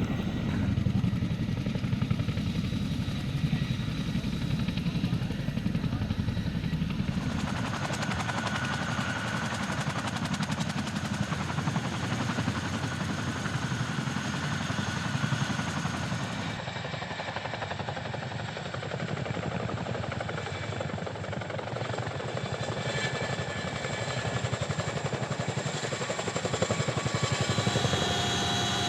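Large military helicopter running, its rotors beating fast and steadily over engine noise. The sound changes abruptly about seven and again about sixteen seconds in.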